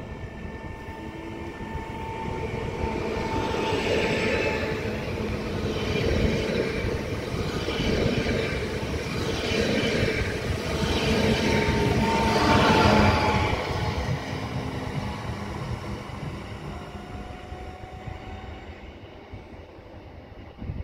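Electric multiple unit passing along a station platform: its running noise builds to a peak about 13 seconds in, with clusters of wheel clatter roughly every two seconds, then fades as it draws away.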